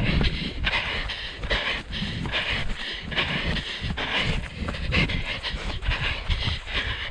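A runner's heavy, rhythmic panting breaths, close to a head-mounted microphone, with wind rumbling over the microphone and footfalls underneath.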